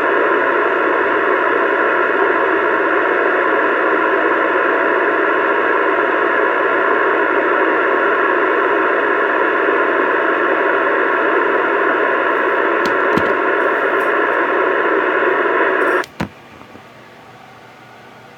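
CB radio loudspeaker putting out loud, steady static hiss, thin and narrow like a radio's audio. It cuts off abruptly about 16 seconds in, leaving only a faint hiss.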